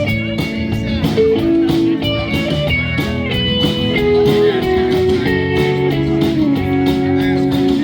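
Live band playing an instrumental passage: guitars and drums, with a lead line of held notes that bend up and down in pitch.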